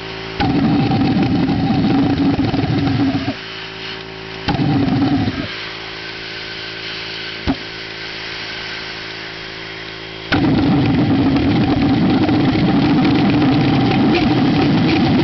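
Homemade propane pulsejet firing in three loud, rough buzzing bursts, each starting with a sharp crack and cutting off abruptly; the last runs about five seconds. It will not keep running on its own. A steady hum runs underneath.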